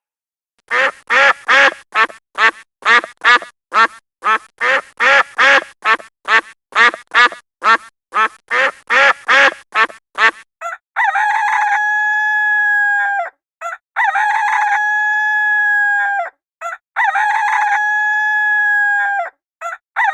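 Chickens: a fast run of short, repeated calls for about ten seconds, then a rooster crowing three long, drawn-out crows, with a fourth starting at the end.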